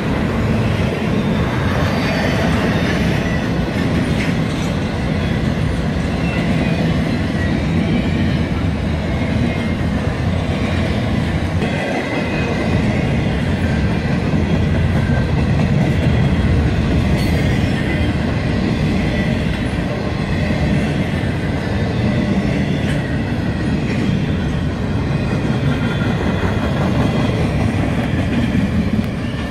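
Double-stack intermodal container freight train rolling past at close range: a steady, loud rumble of steel wheels on the rails from the passing well cars.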